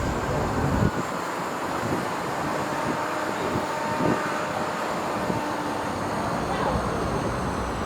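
Steady vehicle and street noise, with faint voices.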